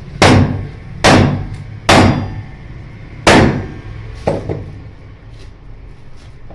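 Hammer striking metal parts of a water pump during repair: four hard blows, each ringing briefly, then two lighter taps.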